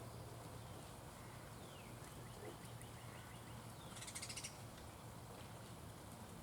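Wild birds calling: a few short notes sliding downward, then a brief rapid burst of repeated harsh notes about four seconds in, over a steady hiss.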